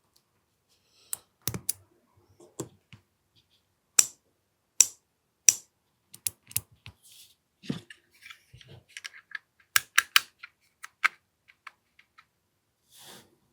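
Irregular sharp clicks and clacks of small parts of an AAP-01 airsoft pistol being worked and handled by hand, with three louder clacks about four to five and a half seconds in and a quick run of clicks around ten seconds in.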